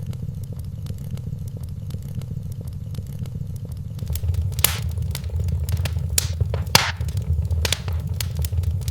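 Wood fire crackling in a fireplace: a steady low rumble of the flames with frequent small snaps and a few louder pops in the second half.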